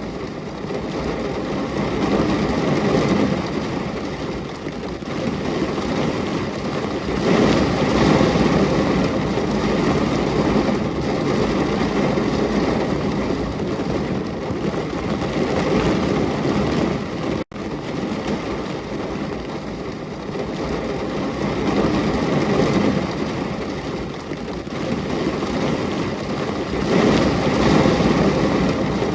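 Heavy rain falling steadily, swelling and easing every few seconds, with a momentary dropout about two-thirds of the way through.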